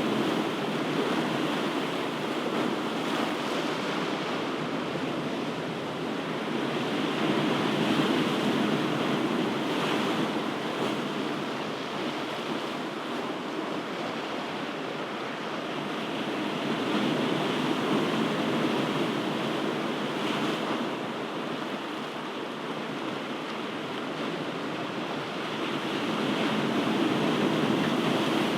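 Ocean waves breaking and washing on the shore in a continuous rush, swelling and fading in slow surges about every ten seconds.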